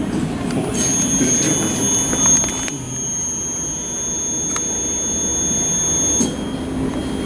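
Servo motor driven by a Yaskawa servopack on a test bench, giving a high-pitched whine that starts about a second in and cuts off suddenly near the end, over a low steady hum.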